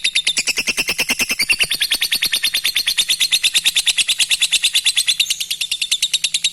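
Lovebird giving its long 'ngekek' chatter: a rapid, even string of sharp, high chirps, about ten a second, kept up without a break.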